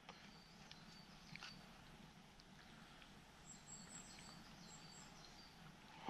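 Near silence, with faint high chirps of small birds between about three and five seconds in, and a few soft clicks of a plastic spoon against a paper soup cup early on.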